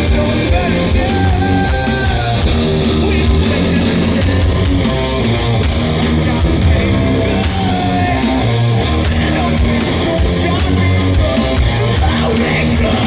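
Live rock band playing loudly: electric guitars over bass and drums, with regular drum and cymbal hits.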